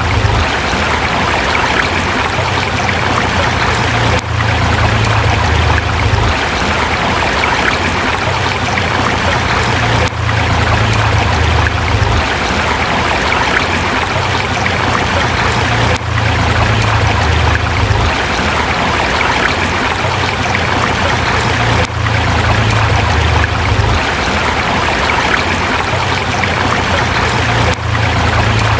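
Forest river rushing steadily over rocks, a dense, even water noise, with a brief dip in level about every six seconds.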